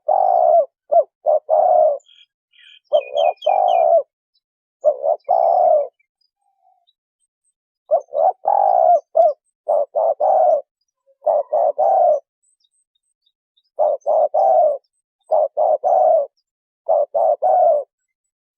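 Spotted dove cooing: short phrases of a few low coos each, repeated with pauses between. A few brief high chirps from a small bird come in about two to four seconds in.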